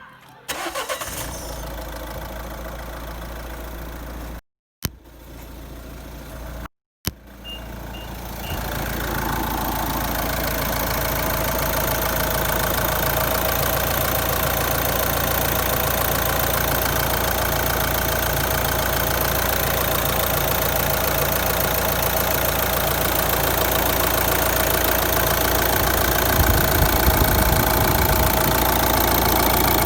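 Renault R9M 1.6 dCi four-cylinder diesel engine of a Nissan Qashqai J11, running steadily. This is the engine noise the owner is checking after having the injectors cleaned. The sound breaks off twice briefly in the first seven seconds, then runs on evenly, slowly getting louder.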